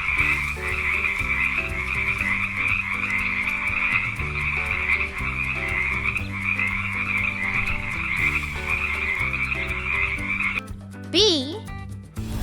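Frogs croaking in a dense, continuous chorus for about ten and a half seconds, cutting off suddenly, over low steady notes.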